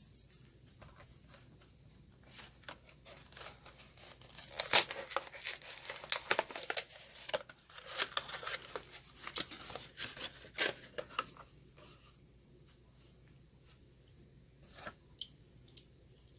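Diecast toy-car blister pack being torn open by hand: cardboard and plastic ripping and crinkling in a quick flurry of tears through the middle, with a few light clicks and crackles near the end.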